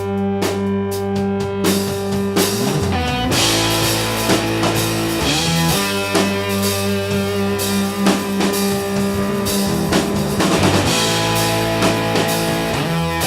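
Instrumental rock music: guitar over held low notes, with the drum kit and cymbals coming in about two and a half seconds in and playing a steady beat.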